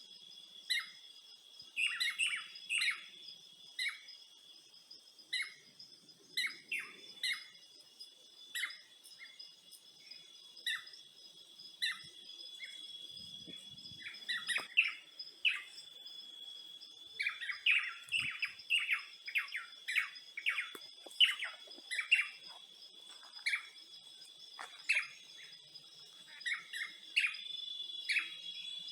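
Birds chirping in many short repeated calls, some in quick runs, over a steady high-pitched insect drone.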